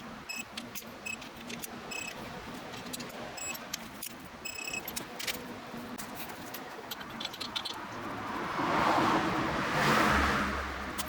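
Light metallic jingling and clicking, like a bunch of keys being handled, then from about eight seconds an engine sound that swells up and eases off again near the end.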